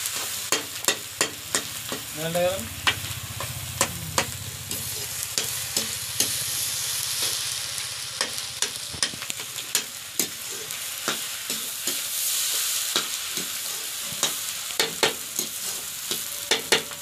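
Egg bhurji sizzling in a kadai while a spatula stirs it, scraping and knocking against the pan many times at an uneven pace over a steady frying hiss.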